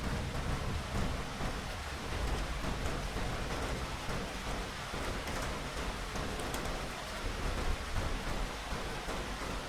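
Steady rain hissing, with a low rumble of distant thunder underneath that is strongest at the start and dies back to a faint roll.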